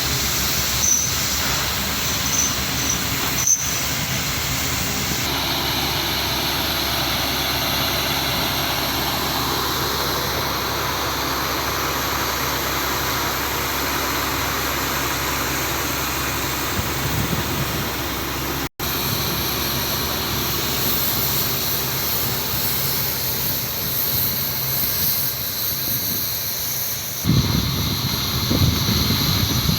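Machinery running steadily, with a momentary break about two-thirds of the way through and a rougher, lower rumble near the end.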